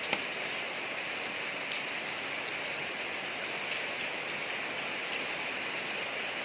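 Steady rain falling on a street: an even hiss with scattered drop ticks, one a little sharper just after the start.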